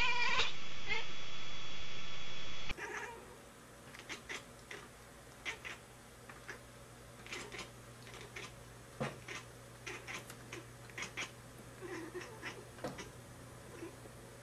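A cat gives a pitched meow right at the start. Then, after a cut, a ginger cat makes a series of quiet short chirps and clicks at irregular intervals, the chattering a cat makes while watching prey through a window.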